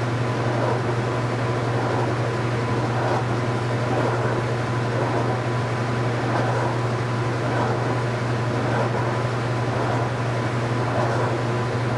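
2015 Speed Queen 8 Series top-load washing machine running: a steady motor hum with a faint swishing that repeats every second or so.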